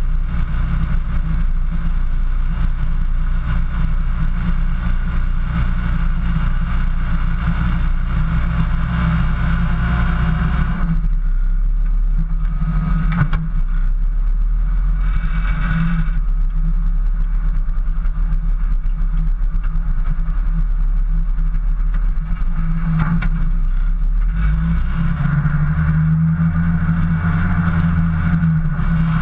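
Engine of an off-road 4x4 running steadily as it drives through snow, picked up by a camera mounted on the outside of the vehicle. About eleven seconds in the engine note changes and a deeper low rumble takes over, and the engine sound rises again near the end.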